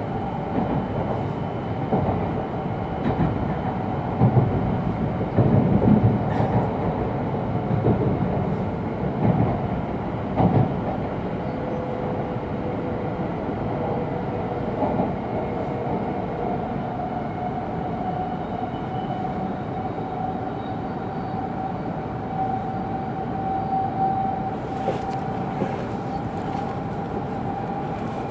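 Cabin running noise of an E2 series Shinkansen car in motion: a steady rumble of wheels on rail, with a few heavier clunks in the first ten seconds and a faint steady tone underneath.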